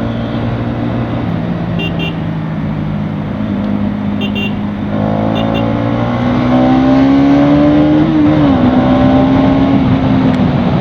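Bajaj Pulsar NS200 single-cylinder engine running in traffic. About halfway through it is opened up, and its pitch climbs steadily before dropping back near the end as the throttle eases or it shifts gear.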